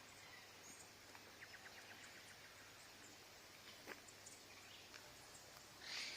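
Faint outdoor ambience with scattered distant bird chirps and a short rapid trill, and a brief louder rustle-like burst near the end.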